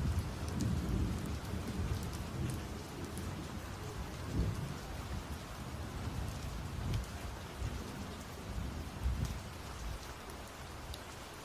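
Steady rain with scattered drops ticking, over a low rumble of thunder that swells and fades several times.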